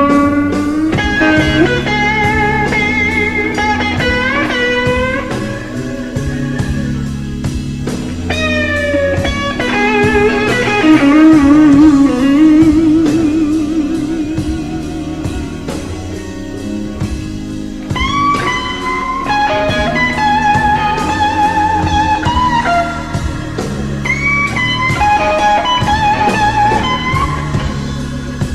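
Electric blues guitar solo full of string bends and wide vibrato over a steady bass line. The loudest stretch is a low, heavily wavering held note about halfway through, and a new run of bent notes starts a few seconds later.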